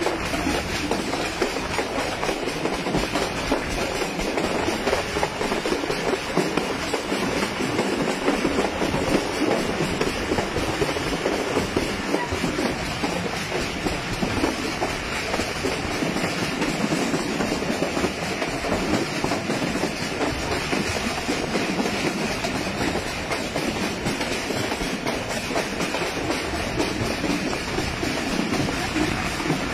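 Passenger train coaches running steadily along the track, heard from an open coach window: a continuous rush of wheel-on-rail noise with a clickety-clack clatter.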